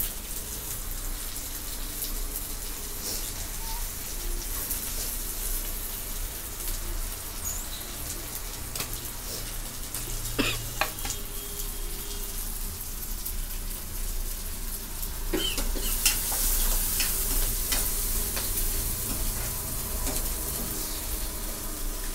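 Onions and green peas frying in oil in a steel kadhai, a steady sizzling hiss that grows louder about two-thirds of the way in, with a couple of sharp knocks partway through.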